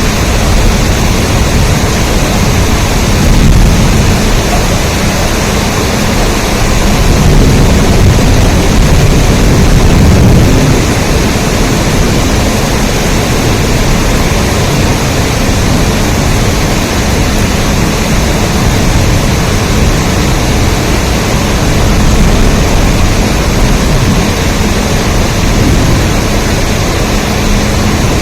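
Rain falling steadily: a dense, even hiss with a strong low rumble, swelling slightly now and then.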